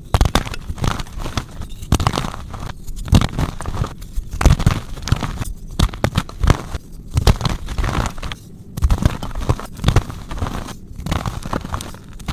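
Dusty, powdery gym chalk being crushed: dry crunching and crackling that comes in repeated squeezes of about a second, with short pauses between.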